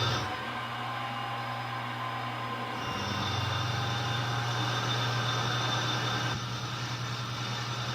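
Milling machine spindle running with a drill bit cutting holes in quarter-inch hot-rolled steel plate: a steady motor hum under a cutting hiss that fades near the start, comes back about three seconds in and drops away again near the end as the bit is fed in and backed out.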